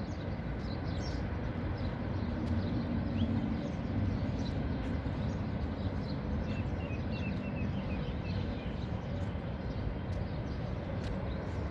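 Outdoor ambience: a steady low rumble with faint bird chirps over it, including a quick run of small repeated chirps about seven seconds in.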